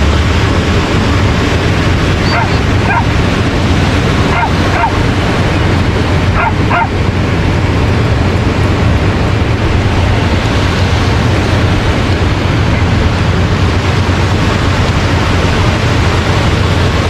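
A dog barking and yipping in a few short clusters during the first seven seconds, over a steady rush of surf and wind.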